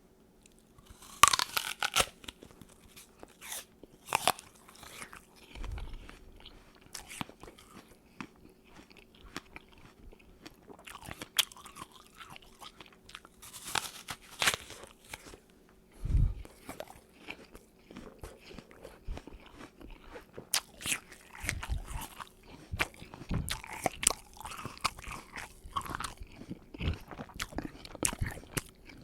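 A person biting and chewing a crisp apple, wet crunching and crackling with a loud crunch of a bite about a second in. Further bites and chewing follow irregularly, with a few dull low thumps near 6 and 16 seconds in, over a faint steady hum.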